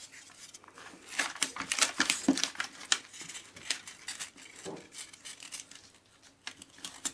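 Self-adhesive plastic book-covering foil crinkling and crackling in irregular bursts as it is handled and wrapped around a part, busiest from about a second in to halfway through.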